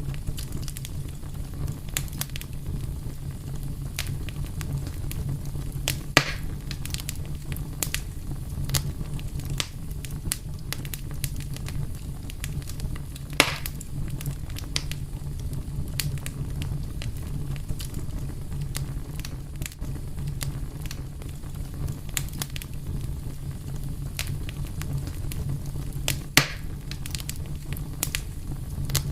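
Fire crackling steadily over a low rumble, with many small crackles and three louder pops spread through it.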